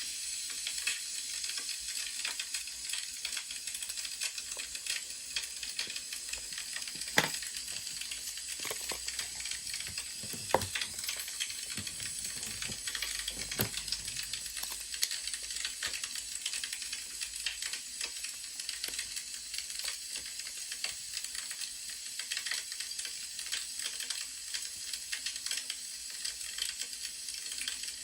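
Wood fire crackling steadily over a soft hiss, with a few louder pops of burning firewood.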